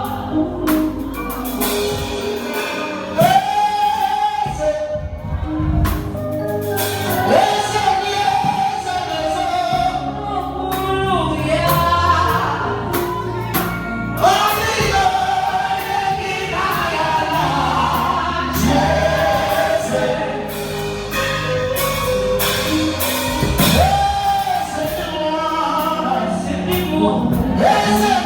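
Live gospel music: voices singing long held notes over a band with bass and drums.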